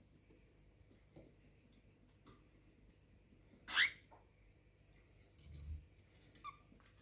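Cockatiel giving one short, loud chirp that sweeps quickly upward in pitch, about four seconds in. A soft low thump follows, then a faint short chirp near the end.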